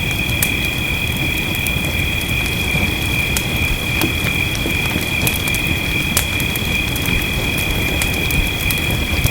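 Fireplace crackling, with scattered sharp pops over a steady low rumble of fire and rain. A constant high-pitched drone runs through the whole mix.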